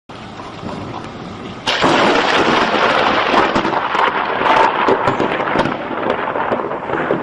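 Thunder from a nearby lightning strike. After a steady hiss of rain, a sudden loud thunderclap comes about two seconds in, then carries on as a long crackling roll.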